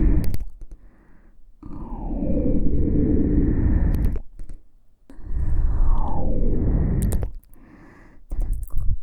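ASMR trigger sounds made right against a KU100 dummy-head ear microphone: three long rubbing passes of about three seconds each, separated by short pauses, each starting with a falling swoosh.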